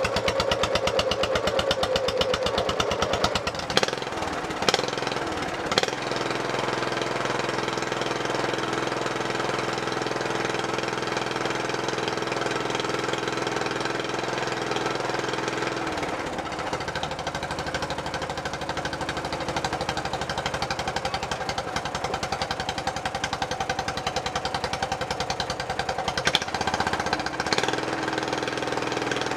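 Craftsman lawn tractor engine running through a custom stainless steel exhaust whose muffler is made from a fire extinguisher. It runs faster at first, gives three sharp pops a few seconds in, then settles to a steadier, lower speed, with changes in speed past the middle and near the end.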